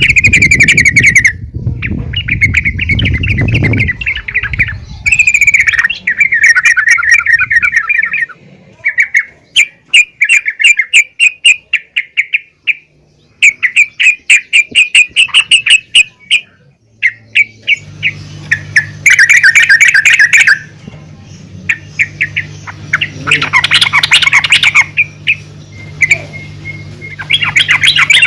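Female yellow-vented bulbul (trucukan) giving fast chattering calls, repeated in bursts of one to three seconds with short gaps: a lure call meant to set male bulbuls calling. A low steady hum joins about two-thirds of the way through.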